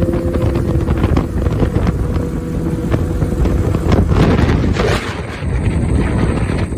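Wind buffeting the microphone of a Kawasaki ZX-6R under way, over the low running of its inline-four engine; a steady engine tone fades within the first second.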